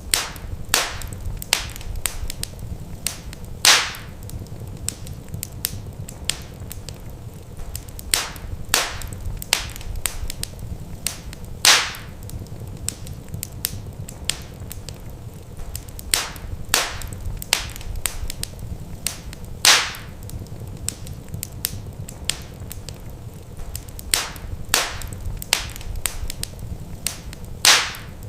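Wood fire in a fireplace crackling: irregular sharp pops and snaps over a steady low rumble, with a louder pop about every eight seconds.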